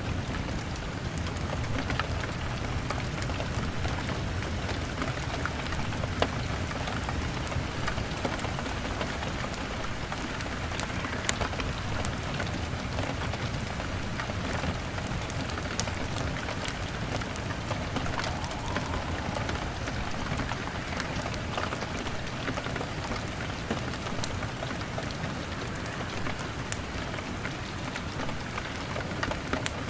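Steady rain on a window, with a continuous low rumble and many scattered sharp clicks that fit the crackling of a log fire.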